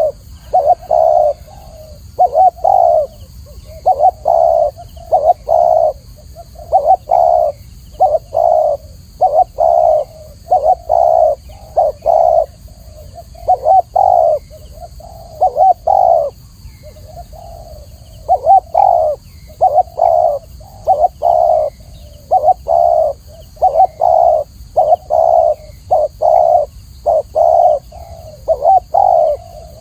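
Spotted dove (Spilopelia chinensis) cooing clearly and without pause, in short phrases of several coos, each phrase following the last about every one to two seconds.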